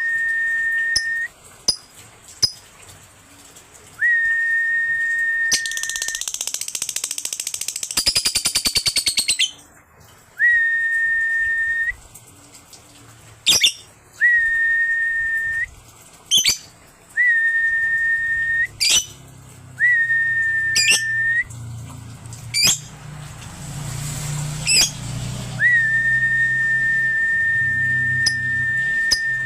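Long, flat, high whistle notes repeated one after another, each held for a couple of seconds. Between them a lovebird chatters in a rapid high trill about six to nine seconds in, and gives short, sharp rising chirps several times later on.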